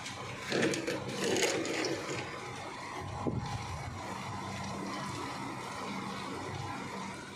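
Rain falling steadily, heard as an even hiss, with a louder, rougher stretch from about half a second to two seconds in and a faint steady low hum underneath.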